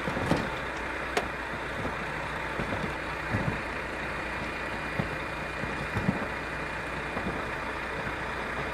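Heavy truck engine running steadily, with a few brief knocks during the recovery rigging.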